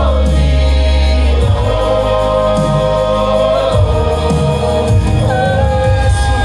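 Live gospel praise music: the congregation and worship leader sing a long held 'holy' over a band with a strong bass line.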